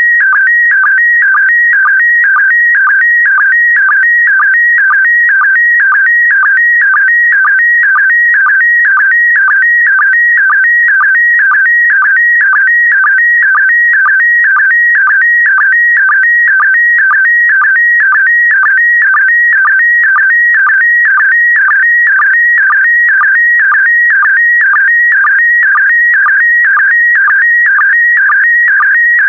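Slow-scan TV signal in PD120 mode sending picture lines: a loud, warbling electronic tone that shifts in pitch as it carries the image. A short lower sync beep repeats it about twice a second.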